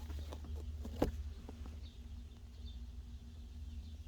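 A few light clicks and taps from handling parts, the sharpest about a second in, over a steady low hum.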